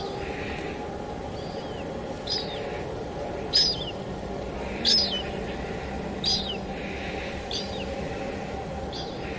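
A bird chirping over steady rain: about eight short, high calls that each slide downward, spaced a second or so apart, the loudest near the middle. Soft sustained music tones run underneath.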